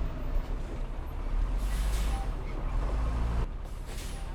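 Heavy diesel earthmoving machinery running with a steady low rumble. A hiss of released air, like a truck's air brake, comes about one and a half seconds in and again briefly near the end.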